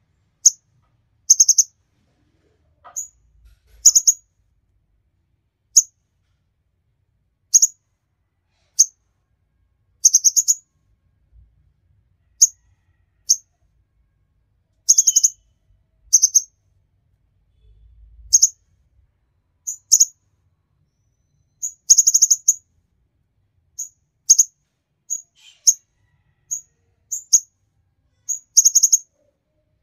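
Kolibri ninja ('konin') sunbird singing: sharp, very high-pitched chirps and short rapid twittering phrases, repeated at irregular intervals of about a second.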